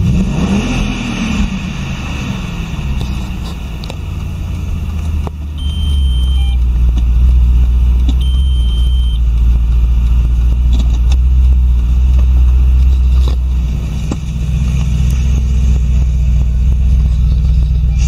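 Audi RS6 Avant (C5)'s twin-turbo V8 running, with a quick rev blip at the start that rises and falls back to idle. The low rumble grows louder about six seconds in and dips briefly near the end. Two short high beeps sound early on.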